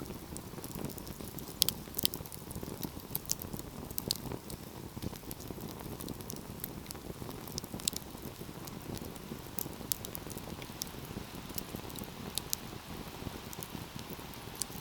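Fire burning in a fireplace: a steady low rush of flames with irregular sharp crackles and pops, a few louder pops about two seconds in and again around eight seconds in.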